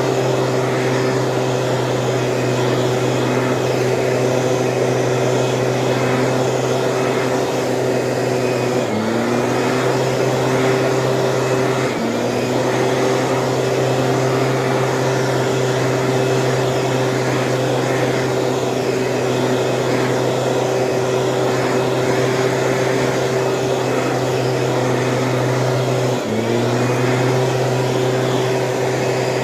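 Small Stihl engine of a weed sprayer running steadily at high speed, briefly dropping in pitch and picking back up three times.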